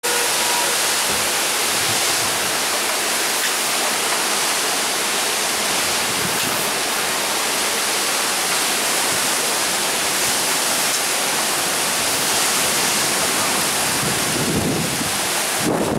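Torrential wind-driven rain pouring down in a thunderstorm cloudburst: a loud, steady, dense hiss. Low gusty rumbles of wind join in near the end.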